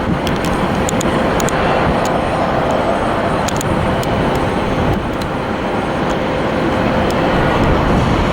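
Jet airliner engines, a steady loud roar with a constant hum running through it.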